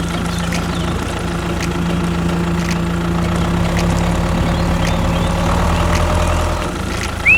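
A steady engine idling sound, an even low hum. A short rising whistle comes at the very end.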